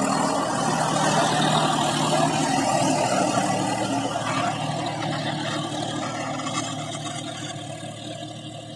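Diesel engine of a Swaraj tractor running steadily, its sound gradually fading.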